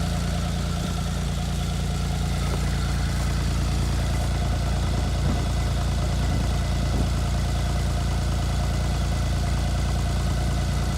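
Arctic Cat T660 Turbo Touring snowmobile's four-stroke turbocharged engine idling steadily.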